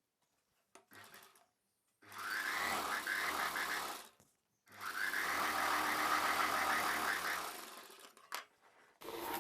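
Sewing machine stitching a seam in two runs of rapid, even stitches, about two and three seconds long, with a short pause between them. A few small clicks come before and after.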